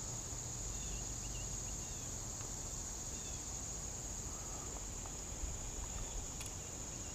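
Steady, high-pitched insect chorus, crickets or similar, with a few faint short chirps early on.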